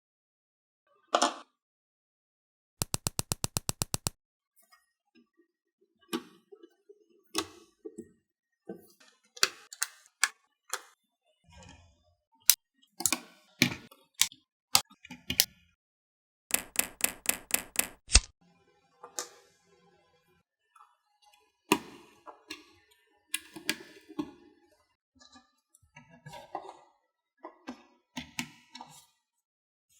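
Plastic LEGO bricks clicking, snapping together and knocking on a hard surface, in scattered sharp clicks with two quick runs of even clicks, about 3 and 17 seconds in.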